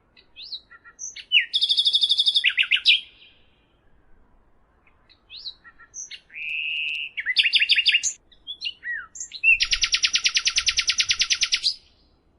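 A songbird singing a varied song of short rising notes and very fast trills. There are three trilled phrases, and the longest, at about two seconds, comes near the end. A short steady whistle sits between the first two trills.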